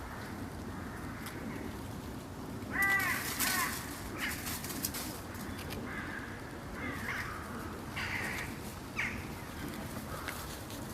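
Birds calling: two loud, harsh calls about three seconds in, followed by scattered shorter calls.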